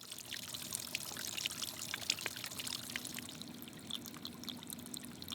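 Water trickling and splashing steadily, with many small, quick drips and plinks.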